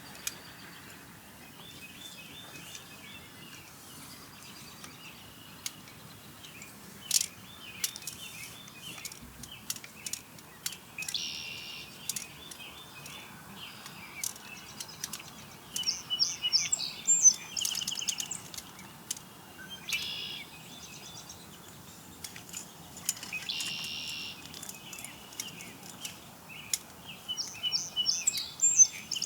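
Birds calling: repeated series of short, high chirping notes over faint outdoor background noise, loudest past the middle and again near the end.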